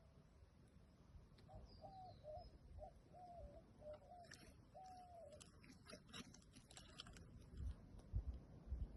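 A dove cooing faintly in a run of short notes, ending with a longer one. Scattered clicks and rustles follow, with a few low thumps near the end.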